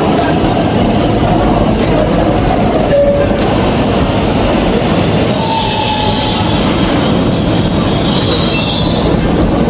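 MTR East Rail Line electric commuter train pulling into the platform and slowing to a stop, with a steady rumble of wheels on rail. A short high hiss and a brake squeal come about halfway through, and another thin squeal comes near the end.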